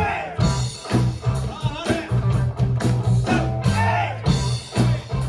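Live rock band playing: electric guitar and bass over a steady drum beat, with a voice singing.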